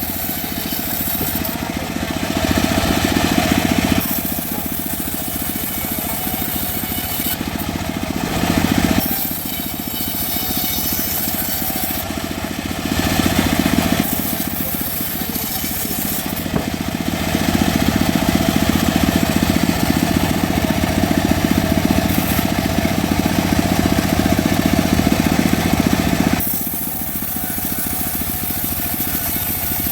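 Homemade sawmill running steadily while its blade saws through mahogany. The hiss of the cut swells several times, the longest stretch lasting about ten seconds in the second half.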